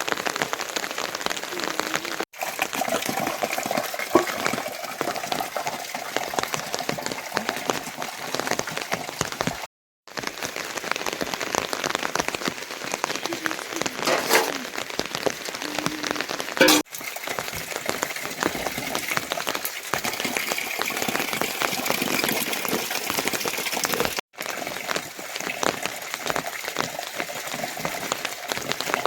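Heavy rain falling steadily, a dense patter of drops, broken three or four times by a brief dropout where the recording cuts.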